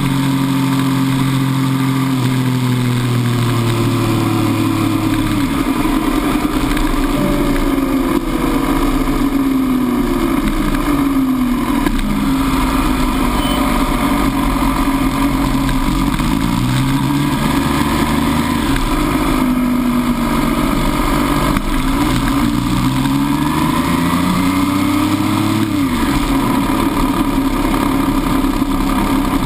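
MV Agusta F3 800's three-cylinder engine heard from on board, its note falling as the bike slows from track speed. It then rises and drops in pitch several times as the bike is ridden slowly through the pit lane and paddock.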